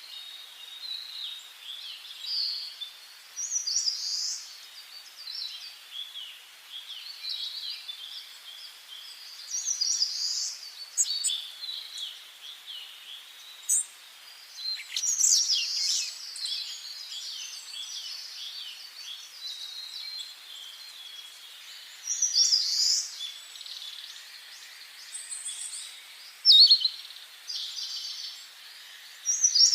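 Songbirds singing in a forest, short high phrases and chirps overlapping one another throughout, with a few louder phrases standing out, over a faint steady hiss.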